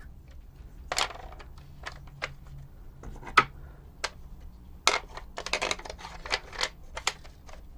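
Irregular clicks and small knocks of loose plastic parts from an Omnibot 2000 tray mechanism being handled, with a sharper knock a few seconds in and a quick run of clicks near the end.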